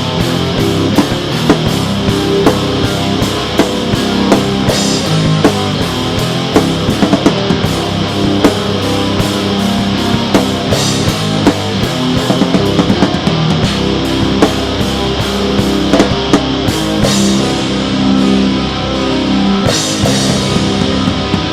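Rock music with distorted electric guitar and a drum kit keeping a steady fast beat.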